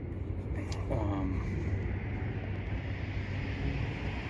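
Steady low rumble of a vehicle, with a brief higher chirp about a second in.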